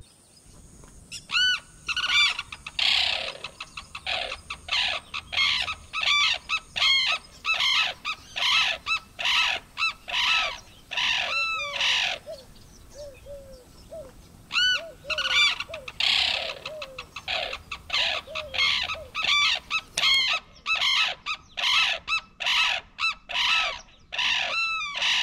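A pair of sarus cranes calling loudly, a rapid series of calls in two long bouts with a short lull around the middle.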